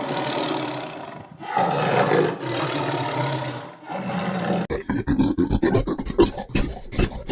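Lion roaring and growling in long, rough calls. About two-thirds of the way through, a different animal sound takes over: a rapid, rough run of short pulses.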